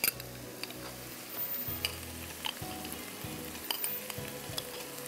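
Diced chicken and onions sizzling in a non-stick wok with dollops of cream just added, with a few light clicks.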